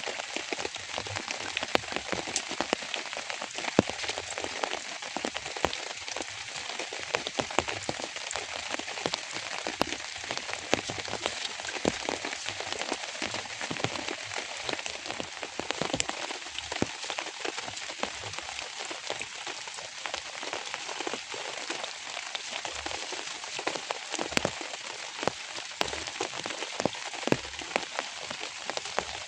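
Steady rain falling, a constant hiss with many individual drops ticking onto a surface.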